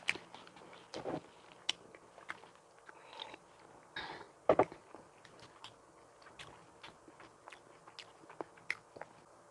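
Close-miked eating of a donut: bites and chewing with many short, wet mouth clicks and smacks, the loudest bite about four and a half seconds in.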